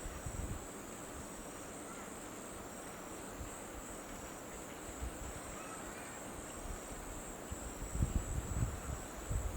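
Steady high-pitched insect chirring, with a few faint bird chirps. Low rumbles come in near the end.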